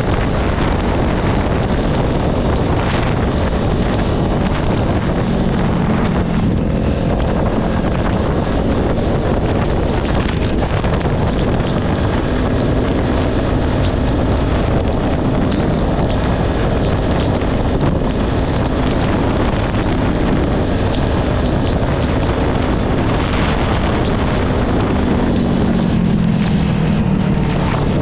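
Heavy wind noise on the microphone over a Kawasaki Ninja 400's parallel-twin engine running at steady road speed. The engine note falls near the end as the bike slows.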